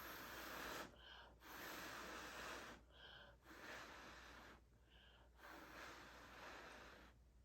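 A person breathing audibly: four long, noisy breaths in a row with short pauses between them.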